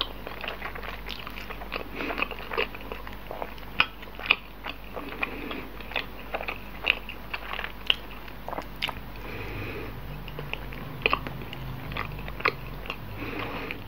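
Close-up chewing of soft bread roll with green tea cream filling: wet mouth clicks and smacks at irregular intervals, a few a second.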